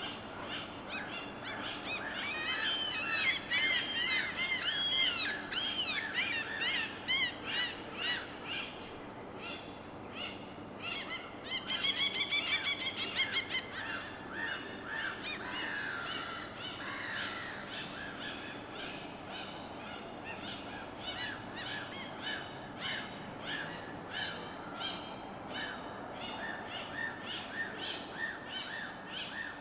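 A chorus of birds calling and chirping over a steady low wash of water. The loudest part is a run of arching calls between about 2 and 7 seconds in, and a fast, rattling trill comes around 12 seconds in.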